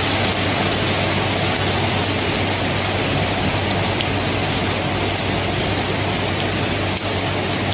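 Steady rain: an even hiss of falling water with faint scattered drop ticks and a steady low rumble underneath.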